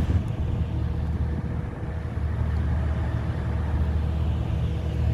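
Steady low engine hum with a faint higher tone held above it, running without change.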